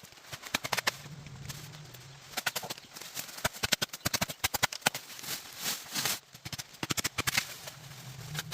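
Irregular runs of quick, sharp knocks and clicks, several a second, with short pauses between runs.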